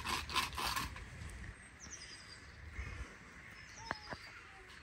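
Faint outdoor ambience with small birds giving a few short, high chirps, and a few soft scuffs in the first second.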